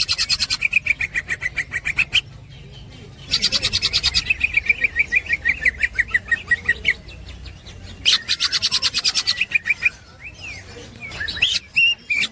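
Green leafbird (cucak ijo) chattering in its 'ngekek' song: long bouts of fast, evenly repeated sharp notes, about seven a second. Three bouts of two to four seconds each are separated by short pauses, and a new bout begins near the end.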